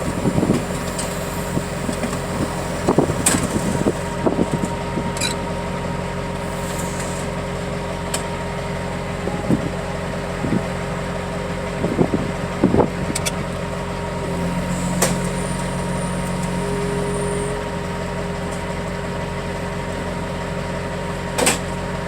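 Diesel engine of heavy loading equipment running steadily, with scattered metallic knocks and clanks. For about three seconds past the middle, the engine note rises and grows louder.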